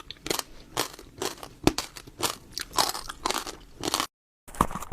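Close-up crunching of a person chewing crisp food: a run of irregular sharp crunches, about two or three a second, broken by a brief dropout to silence near the end.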